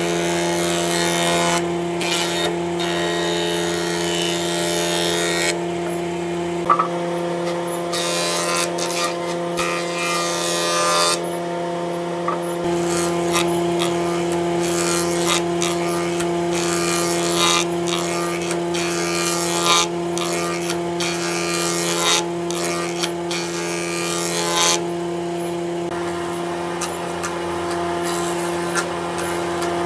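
Electric power tool running continuously with a steady motor hum, while stretches of hiss come and go every few seconds as it works the wood.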